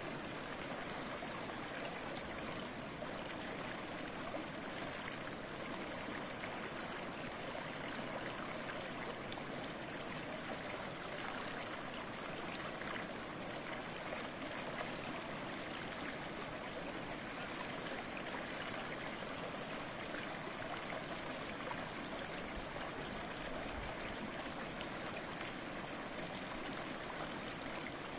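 A small stream of flowing water babbling steadily, an even, unbroken trickling rush.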